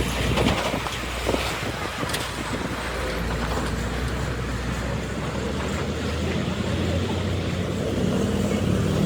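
A motor vehicle engine running steadily with a low hum, with a few sharp knocks in the first two seconds; the engine gets louder near the end.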